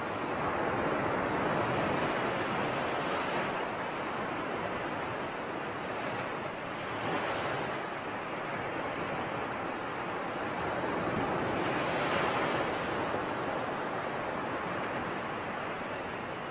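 Sea waves breaking and washing on a shore, the surf swelling and falling back in slow surges, three larger ones a few seconds apart.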